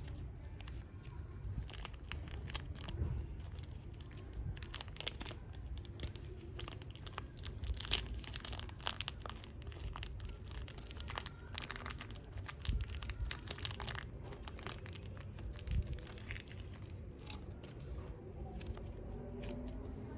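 Plastic clay packaging being crinkled and torn open by hand: irregular crackles and rustles, busiest in the middle and thinning toward the end.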